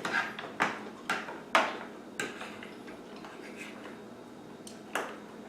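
Close-up eating sounds: a run of sharp clicks and smacks about every half second for two seconds, then one more near the end.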